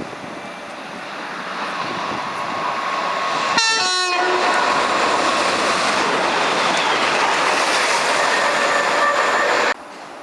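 Train running through the station, its rolling noise building, with a short horn blast about three and a half seconds in; the loud passing noise then holds steady and cuts off suddenly near the end.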